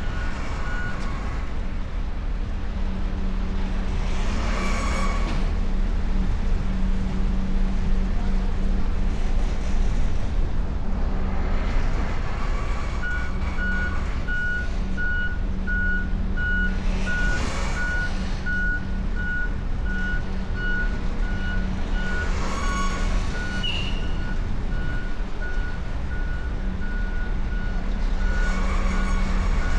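Trucks manoeuvring on a ferry's vehicle deck: a steady low diesel engine hum, with a truck's reversing alarm beeping in an even rhythm from about a third of the way in. A short hiss of air comes about every five seconds.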